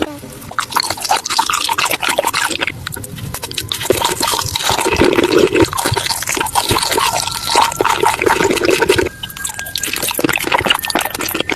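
Close-miked wet eating sounds: a dense run of small smacks and clicks from chewing and slurping. There is a short lull just after nine seconds.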